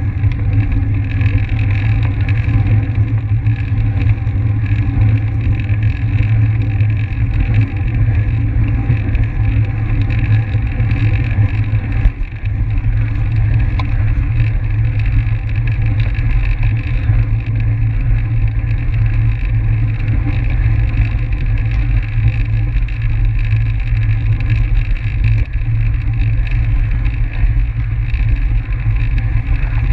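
Steady wind rush and rumble on the microphone of a camera carried on a track bike at race speed, with the hum of the wheels on the track.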